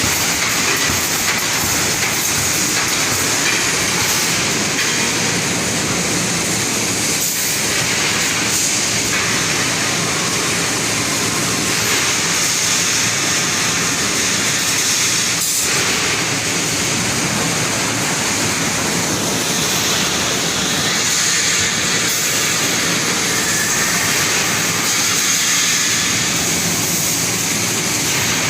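Rebar wire mesh welding machine running: a loud, steady mechanical din with hiss, keeping up without a break.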